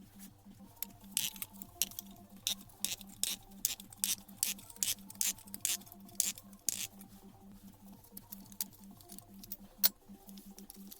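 Irregular light clicks and taps of tools and small parts being handled on a workbench, as in stripping down a Hilti TE 76 rotary hammer, over a steady low hum. One sharper click stands out near the end.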